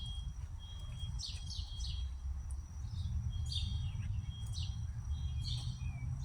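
Wild birds chirping: groups of short, quick, falling chirps come a few times, over a thin steady high whine and a low rumble.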